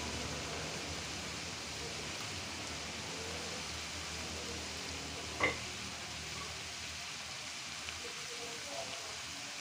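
Bitter melon stir-fry sizzling steadily in a wok, with one brief sharp sound about five and a half seconds in.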